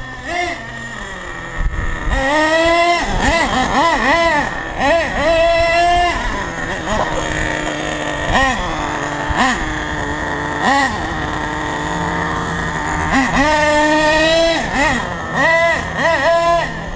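Two-stroke RB MT10 4.6 cc nitro engine of an HPI Savage 1/8-scale RC monster truck, revving with the throttle. Its high-pitched note sweeps up and down repeatedly, with a steadier, more even stretch in the middle.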